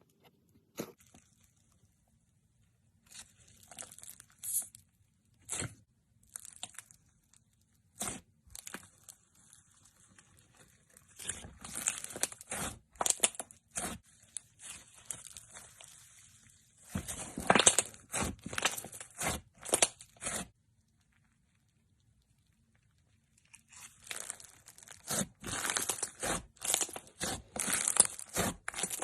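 Hands squishing, pressing and stretching slime: irregular bursts of sticky crackling and popping clicks, broken by short pauses.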